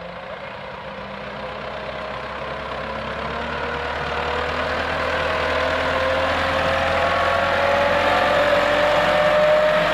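Massey Ferguson 385 tractor's diesel engine running, growing steadily louder while its pitch rises slowly.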